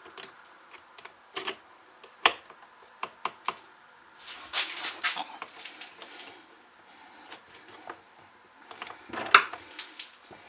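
Scattered clicks, knocks and short scrapes of tools and small chainsaw parts being handled on a workbench, with longer scraping rustles about halfway through and again near the end.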